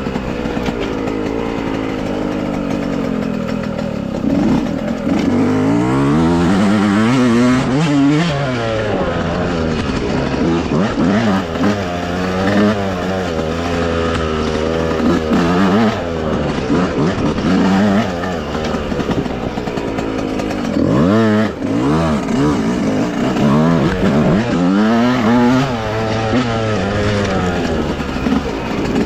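Dirt bike engine revving up and down again and again under changing throttle while riding a trail, with a brief drop off the throttle about two-thirds of the way through.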